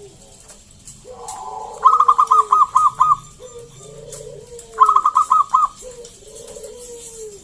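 A zebra dove (perkutut) calling: two loud, rapid staccato cooing phrases of about six notes each, a few seconds apart. Softer, lower falling coos repeat steadily underneath.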